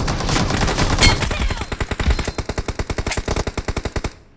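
Sustained automatic gunfire in a shooter video game: one long burst of rapid, evenly spaced shots that cuts off about four seconds in.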